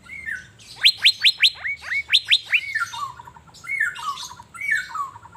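Captive Asian fairy-bluebird singing. First comes a quick run of about eight sharp rising whistles, then repeated falling, slurred whistled notes.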